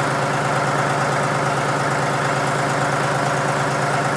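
John Deere 5103 tractor's diesel engine idling steadily just after a cold start in below-freezing weather, still cold and warming up.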